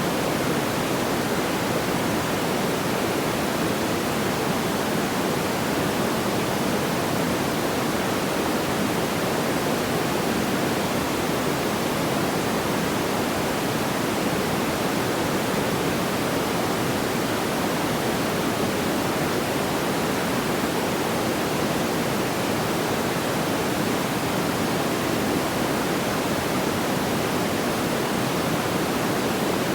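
Steady, even rushing noise like pink noise, unchanging throughout, with no crackles or pops.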